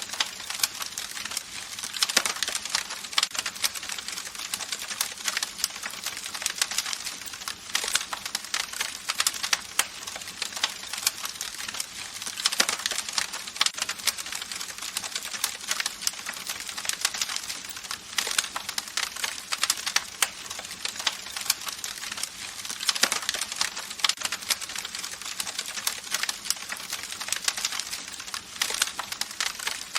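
Campfire crackling: a dense, irregular run of sharp snaps and pops over a soft hiss.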